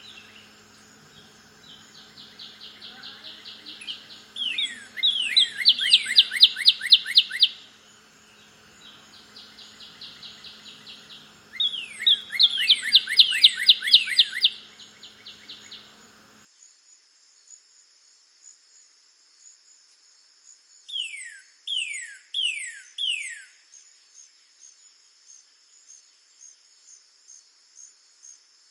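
Northern cardinal singing: two bouts of quick, repeated down-slurred whistles, then after a cut four slower, separate down-slurred notes. A steady high insect drone and faint high trills from other birds run underneath.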